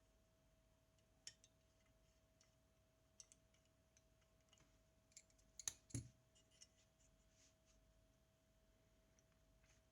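Faint scattered clicks and light taps of small tools and parts being handled while a Zenit TTL camera is worked on, with two sharper knocks close together about six seconds in. A faint steady tone runs underneath.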